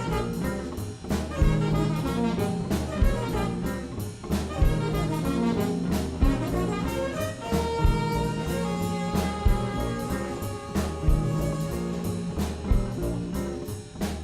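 Jazz music: horns playing over a drum kit and bass with a steady beat, the horns holding long notes about halfway through.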